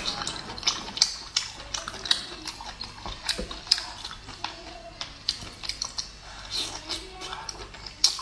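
Close-up chewing and lip-smacking of braised abalone: a string of irregular wet clicks and smacks, several a second.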